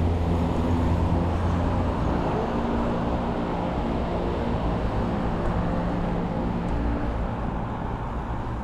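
Road traffic heard from a bicycle: a motor vehicle's engine running close by, over steady road noise. The engine's low hum is strongest at first and eases about two seconds in.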